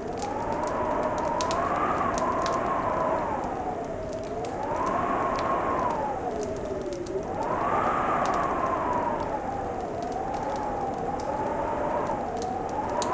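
Fireplace crackling with scattered sharp pops, under a loud, whistling wind whose pitch rises and falls slowly every few seconds.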